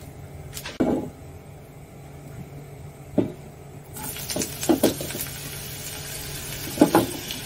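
Diced scallion whites hitting hot oil in a small saucepan and sizzling, the sizzle setting in about halfway through and holding steady. There are a few sharp knocks before and during it.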